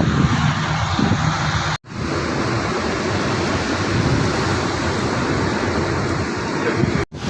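Heavy rain pouring in a thunderstorm with gusting wind, a steady loud rush. It cuts out for an instant twice, about two seconds in and near the end.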